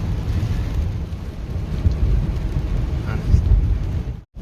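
Low, steady rumble of rain and road noise from traffic driving through flooded streets. It cuts out abruptly for a moment near the end.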